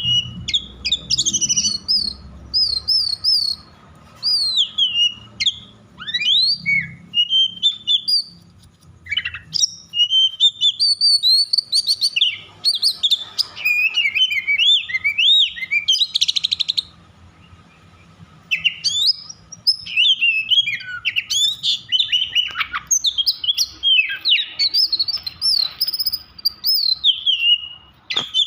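Oriental magpie-robin (kacer) singing in a fired-up, agitated state: a fast, dense run of varied high whistles, slurred notes and chirps, with a brief pause a little past halfway.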